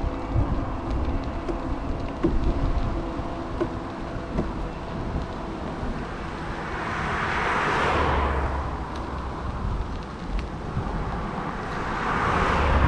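Road traffic heard from a moving bicycle: one vehicle swells up and passes about eight seconds in, and another near the end. Steady wind rumble on the microphone runs underneath.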